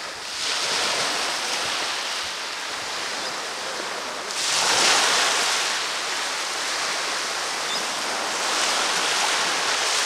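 Ocean waves breaking and washing up on a beach in repeated swells, the loudest about halfway through.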